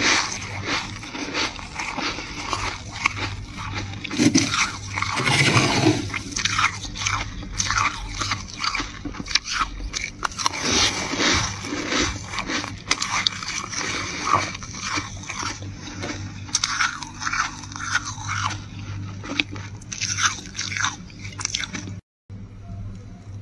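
Close-miked biting and crunching of flaky freezer frost: many irregular crunches one after another. The sound breaks off briefly near the end, and what follows is quieter.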